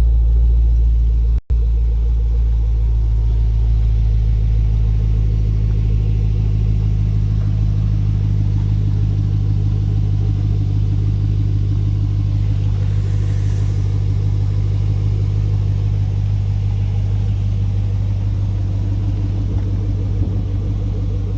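Car engine idling steadily with a low, even note, soon after a cold start. The sound drops out for an instant about a second and a half in.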